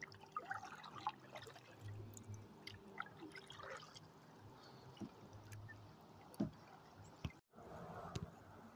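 Faint water dripping and trickling around a kayak, with scattered small ticks and a sharper knock about six and a half seconds in.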